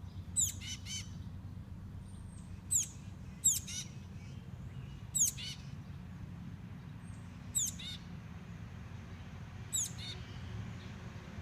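A baby bird chirping: short, high-pitched calls, each sliding down in pitch, repeated every one to two seconds.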